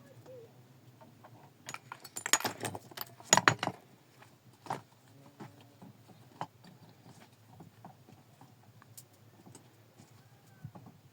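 A rapid clatter of sharp knocks and clicks, hard objects striking each other, for about two seconds, then occasional single knocks.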